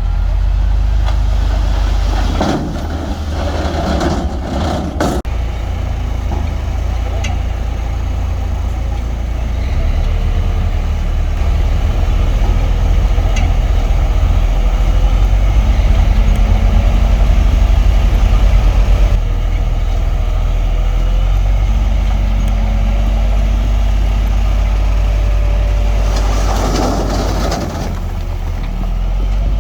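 Heavy diesel earthmoving machinery running with a deep, steady engine rumble. Two louder rushes of noise come a couple of seconds in and again near the end.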